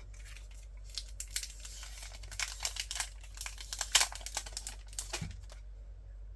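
Plastic wrapping crinkling as an acrylic piece is unwrapped by hand: a run of crackles that stops about five and a half seconds in.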